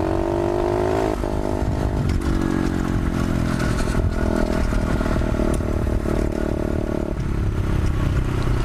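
125cc pit bike engine running under throttle as it is ridden. Its pitch climbs and then drops about a second in, and the revs change again a couple more times.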